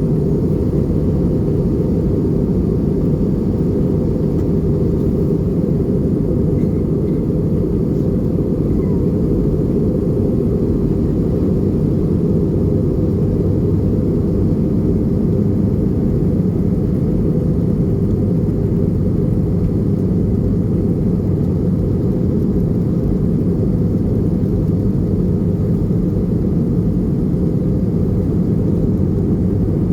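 Airbus A320 engine and airflow noise heard inside the passenger cabin: a loud, steady, low rumble that holds unchanged throughout.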